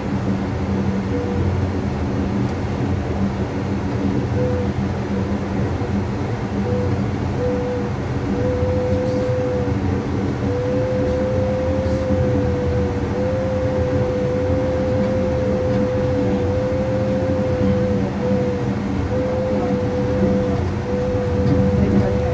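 Steady low rumble inside an Amtrak Superliner coach car as the train runs. A single mid-pitched hum cuts in and out, then holds for longer stretches from about halfway through.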